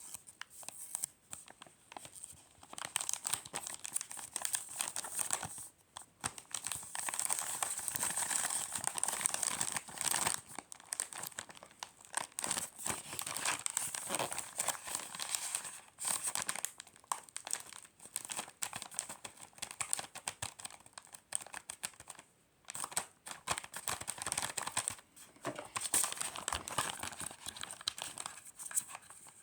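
Packaging material crinkling and rustling as a gift is packed by hand, with some tearing. The rustling comes in long stretches with a few short pauses.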